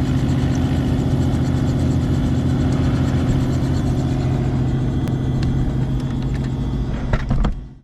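Diamond DA42 twin's engines running steadily, a constant low drone that fades out near the end.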